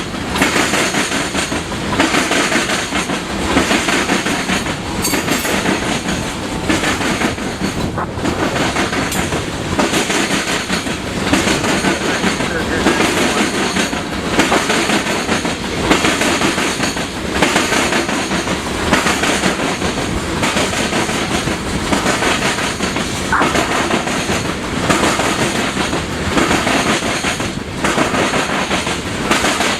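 Railroad cars rolling past close by, their wheels clicking over rail joints in a steady rhythm of about one beat every second or so.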